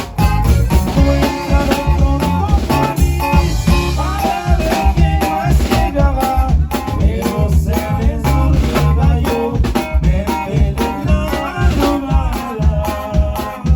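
Band music with a steady drum beat, heavy bass and a lead melody line.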